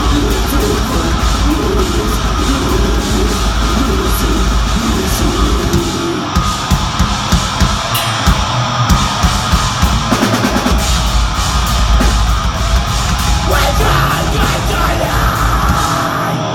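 Live deathgrind band playing at full volume: heavily distorted guitars and bass over fast drumming, with a stretch of sharp, hard-hit drum accents in the middle. The song stops abruptly at the very end.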